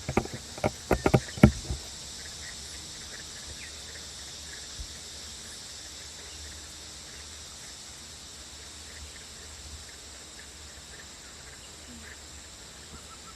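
A quick run of sharp clicks and knocks in the first second and a half, then a steady high-pitched chorus of rainforest insects over a low hum.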